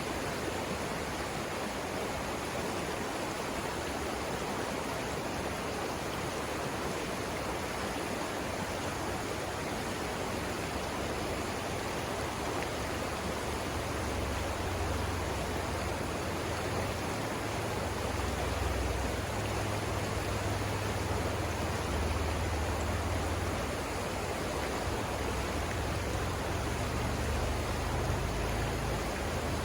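Savannah River rapids rushing: a steady, even wash of flowing water. A low rumble comes in about halfway through and continues, rising and falling.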